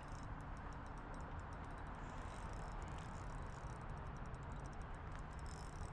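Quiet creekside ambience: a faint, steady rush, with light, irregular ticking over it.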